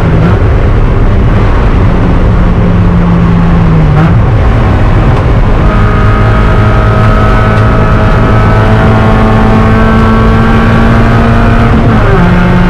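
Spec Miata race car's four-cylinder engine running hard under load, heard from inside the car over heavy road and wind noise. The note breaks about four seconds in, then climbs slowly through a long pull in gear and drops abruptly near the end at an upshift.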